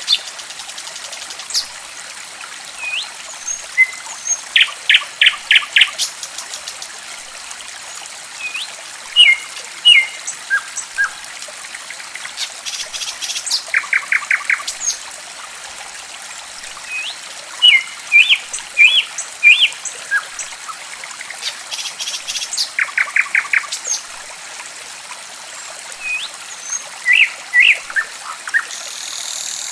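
A songbird calls over steadily trickling water: scattered short chirps and whistled notes, some sliding up or down, and every few seconds a quick run of five or six rapid repeated notes.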